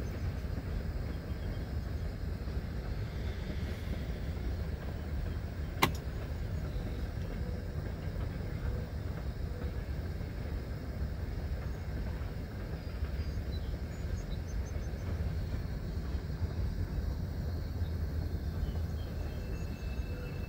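Freight train of hopper cars rolling past at a distance, a steady low rumble, with one sharp click about six seconds in.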